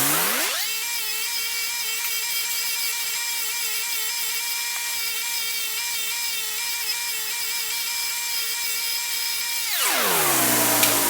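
Small high-speed rotary tool spinning up to a steady high-pitched whine, running for about nine seconds, then winding down near the end.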